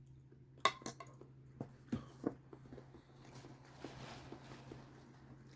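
Eating noises: wet clicks and smacks from chewing cooked Brussels sprouts, sharpest in the first two seconds, then a soft breathy exhale. A steady low electrical hum underneath.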